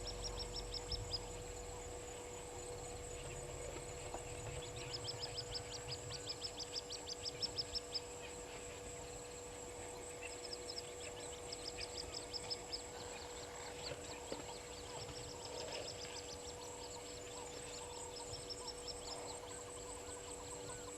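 Wild birds calling in repeated runs of rapid, high chirps, each run lasting a second or two, over a steady thin high whine and a faint steady hum.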